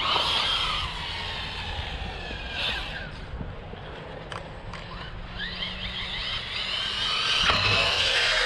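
Electric motor of a large RC car whining: the pitch falls just after the start, fades in the middle, then climbs again and grows louder toward the end as the car speeds up.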